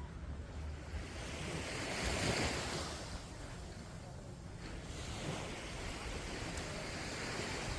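Small sea waves breaking and washing up a sandy beach, with wind rumbling on the microphone. One wash swells up about two seconds in.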